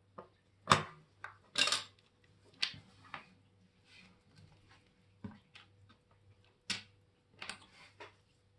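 Watchmaker's metal tools and small watch parts clicking and clinking on a workbench: a string of irregular sharp taps, the loudest just under a second in and about a second later, over a faint electrical hum.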